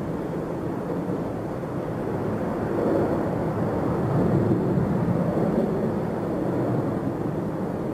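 Jet airliner engines at takeoff power, heard from a distance as a steady, rough, low rumble that swells slightly and fades again.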